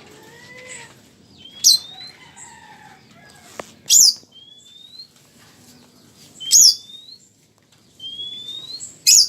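Lovebird giving loud, shrill chirps: four sharp calls about two and a half seconds apart, with thin rising whistles in between.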